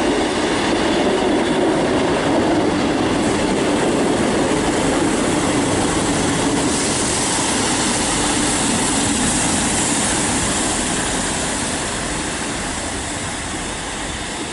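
A Class 158 diesel multiple unit running into the platform: a loud, steady rumble of engines and wheels on the rails, with a hiss higher up from about seven seconds in as it slows, easing off towards the end.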